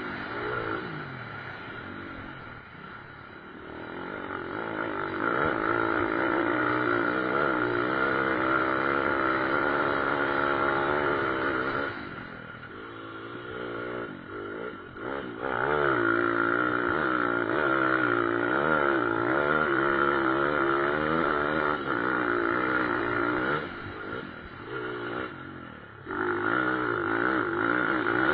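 Pit bike engines racing: throttles revving up and backing off, the pitch rising and falling over and over. The engines ease off and quieten around three seconds in, again around thirteen seconds, and near twenty-five seconds, then come back up.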